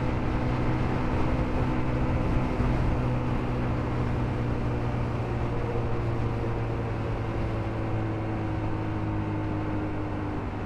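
Motorcycle engine running at a steady cruise, with wind rushing over a helmet-mounted microphone.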